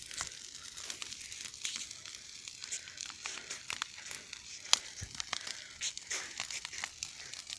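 Campfire crackling: irregular snaps and pops of burning wood over a soft hiss, with one sharp pop about four and a half seconds in.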